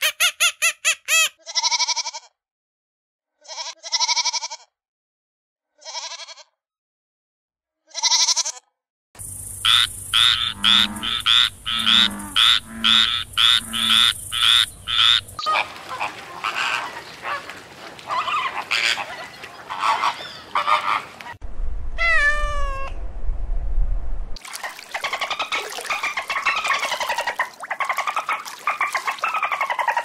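A succession of different animal calls cut one after another. At first short calls come about every two seconds with silence between them. From about nine seconds a fast run of calls follows, about two a second, over a steady background, and then a changing mix of calls that includes a brief series falling in pitch.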